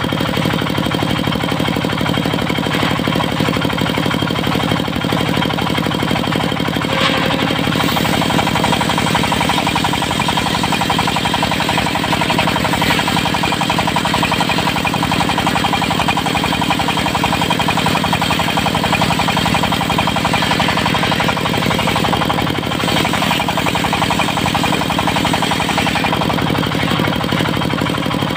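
Diesel engine of a portable circular-saw sawmill running steadily with a fast, even knock, with a few faint clicks over it.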